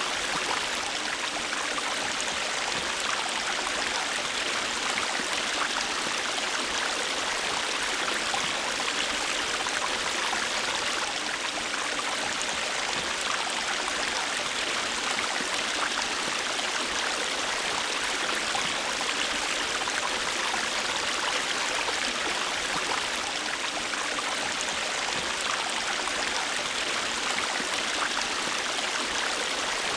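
River water flowing and rippling over stones, a steady rushing with fine trickling and gurgling detail.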